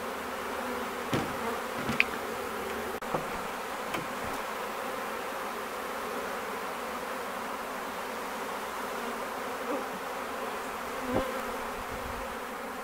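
A swarm of honey bees buzzing steadily in a dense hum as the swarm, its queen caught, files into the collection box. A few short, light knocks sound over the hum.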